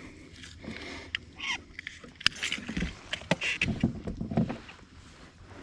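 Irregular knocks, clicks and short splashy rustles of handling a just-landed fish and gear in a kayak, with a few dull thumps on the hull near the middle.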